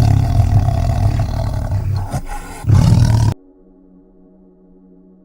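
A large animal roaring: a loud, low, rough roar, a short pause, then a second shorter roar, cut off suddenly a little over three seconds in. After the cut, soft ambient music with held tones.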